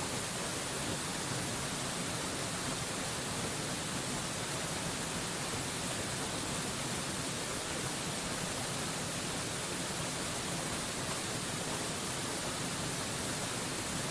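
Waterfall rushing: a steady, unbroken hiss of falling water, strongest in the high end, with no changes.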